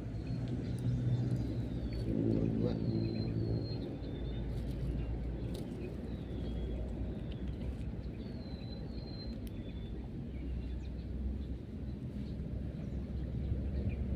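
A bird calls in short, high chirps, often in pairs, repeating every couple of seconds. Underneath runs a low rumble like a distant engine, strongest in the first few seconds.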